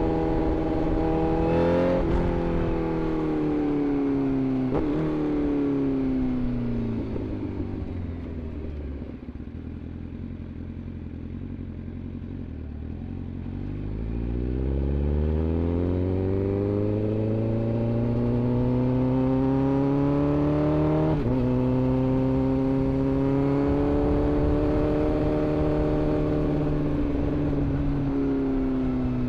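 Inline-four sportbike engine riding in traffic: the revs fall away as the bike slows, with gear-change blips about two and five seconds in, sit low and quieter for a few seconds, then climb steadily, with a gear change about 21 seconds in before the engine holds a steady cruise.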